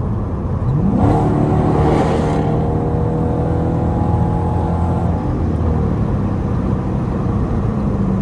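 Straight-piped Dodge Durango R/T V8 exhaust accelerating hard: the note climbs sharply just before a second in, then holds a steady, loud drone under load, easing off after about five seconds.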